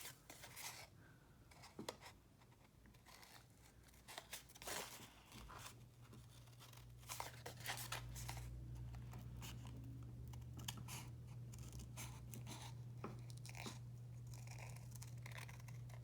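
Paper being handled and rustled: sheets of collage paper shifted and moved about, with scattered soft clicks and crinkles. A faint steady low hum comes in about five seconds in.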